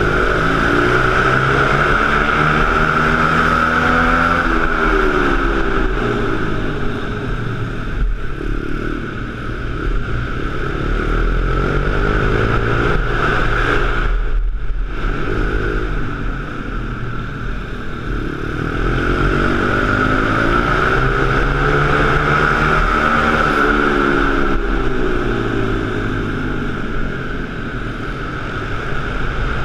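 Pit bike engine running continuously with a steady high whine, its tone swelling and fading in slow waves as the bike moves around an indoor space. The sound dips out briefly about halfway through.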